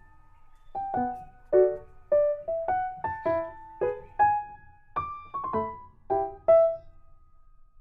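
Background piano music: a gentle melody of single struck notes and soft chords, each note ringing and fading, after a short pause at the start.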